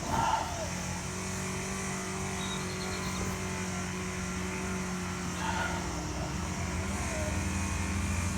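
A steady low mechanical hum, like a running engine or motor nearby, with a couple of faint short sounds over it.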